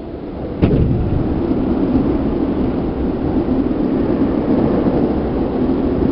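Seibu New 2000 series electric motor car heard from inside while running: a deep rumble of wheels and motors that grows louder, jumps suddenly with a sharp bang just under a second in, then holds loud and steady.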